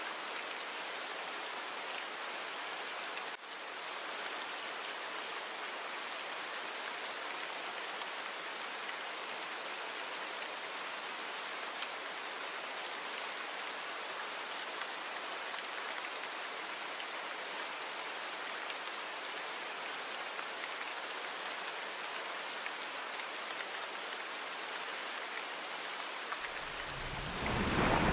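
Steady rain falling on surfaces, an even hiss of drops. Near the end a low rumble of thunder comes in and swells.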